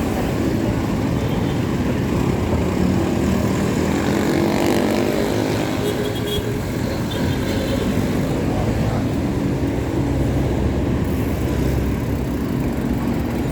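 Steady city road traffic heard from a moving bicycle: vehicle engines and tyre noise with a heavy low rumble.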